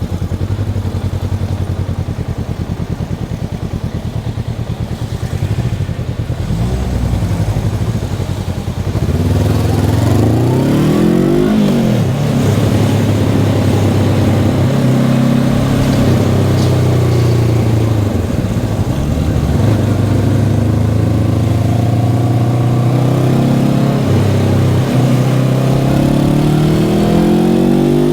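Honda CB500X's stock parallel-twin engine, running at low revs at first, then from about nine seconds in louder, its pitch rising and falling as the bike is ridden through the gears, and climbing again near the end as it accelerates.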